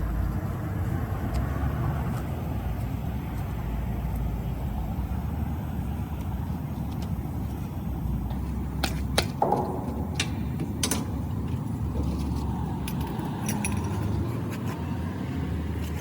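Metal clanks and clicks of a gasoline tanker's delivery hose fittings and caps being handled. The sharpest come in a cluster about nine to eleven seconds in, over a steady low vehicle engine rumble.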